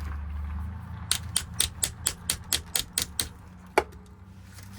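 A quick run of about ten sharp metallic clicks, four or five a second, then one louder single click, from a Ford lock cylinder being worked by hand while it is taken apart for rekeying.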